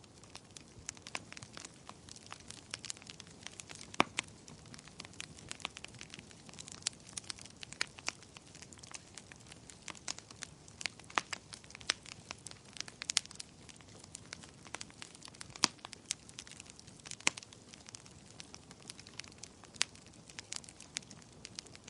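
Wood fire crackling: irregular sharp pops and snaps, several a second, over a soft low hiss.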